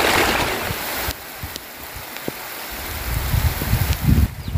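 Rain falling steadily as a loud hiss that drops suddenly to a softer hiss about a second in; later, gusts of wind noise buffet the microphone.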